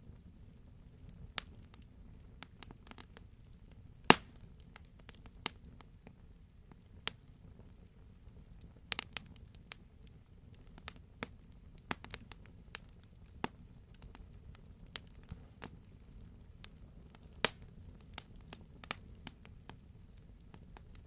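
Wood campfire crackling: irregular sharp pops and snaps over a low steady rumble, with one louder pop about four seconds in.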